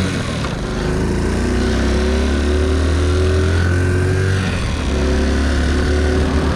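Honda C90 step-through's small single-cylinder four-stroke engine accelerating as the bike pulls away, its pitch climbing and then dropping back at each gear change, with a low rumble of wind on the microphone.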